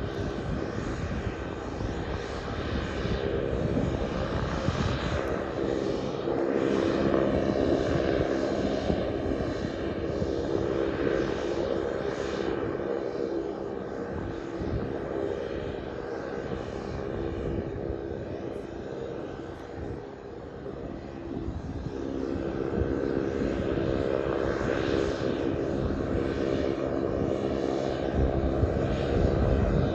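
Pilatus PC-12's single Pratt & Whitney PT6A turboprop engine running with its propeller turning, a steady droning tone over a rushing hiss. The loudness swells and eases, quietest about twenty seconds in and climbing again afterwards.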